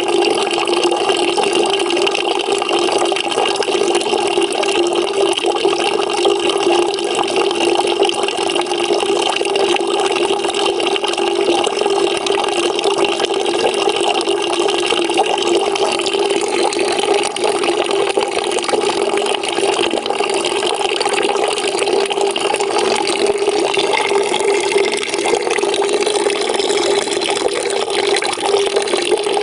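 Water pouring steadily into a bucket, a continuous splashing rush with a hollow, resonant ring from the bucket.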